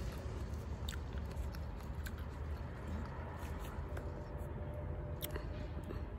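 A person chewing crisp grapes with her mouth closed, giving a few soft crunches and clicks over a steady low rumble.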